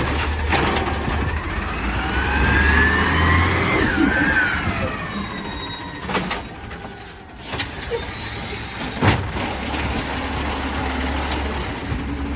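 Peterbilt 320 garbage truck's diesel engine running. For a few seconds it revs up with a rising whine as the automated side-loader arm works, then eases off, with several sharp clanks.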